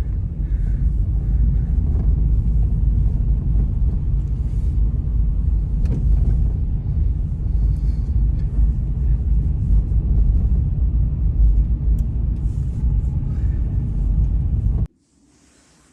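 Blizzard wind buffeting the microphone: a loud, steady low rumble that cuts off suddenly near the end.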